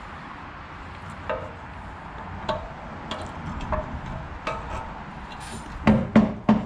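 Metal parts being handled at a workbench: light clicks and knocks every second or so, then three louder knocks in quick succession near the end.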